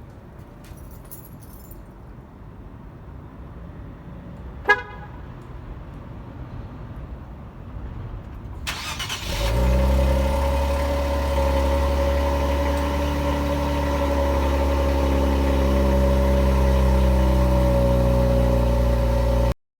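A short horn-like chirp about five seconds in. Near the middle, the Infiniti Q50 Red Sport's twin-turbo 3.0 V6 cranks briefly, catches and settles into a loud, steady cold-start idle through Megan Racing downpipes and the stock exhaust.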